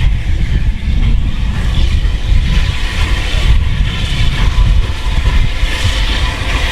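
Steam train running, a steady heavy rumble with hiss over it.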